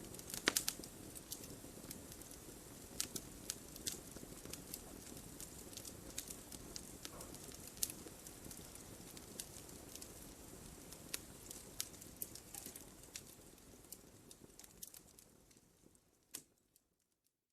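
Wood fire in a fireplace crackling, with irregular sharp pops over a low steady rush of flame. The sound fades out near the end to near silence, broken by one last pop.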